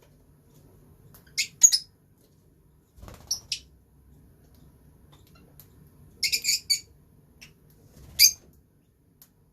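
Pet lovebirds giving short, high-pitched chirps: a few single calls, then a quick run of chirps about six seconds in and one more near the end.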